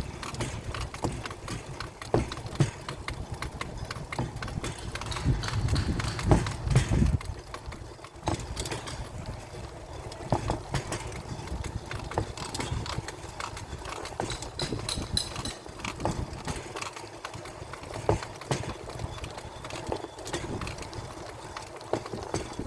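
Pedal-powered rail bike rolling along the track on steel wheels: a steady low rumble with many irregular clicks and clacks, louder for a couple of seconds about a quarter of the way in.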